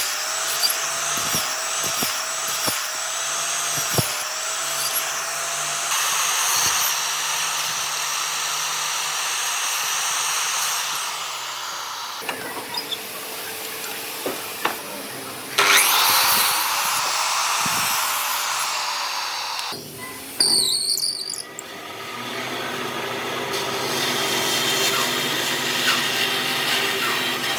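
Power tools working wood, the noise changing abruptly several times as one tool sound gives way to another. A brief high squeal comes about twenty seconds in.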